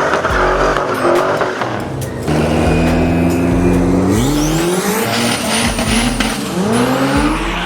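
Car engine revving hard, rising in pitch about four seconds in and again near the end, with tires squealing high in the middle as the car drifts.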